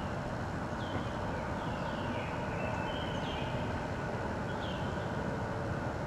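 A songbird calling: about four short descending whistled notes, spaced a second or so apart, over a steady broad rumble.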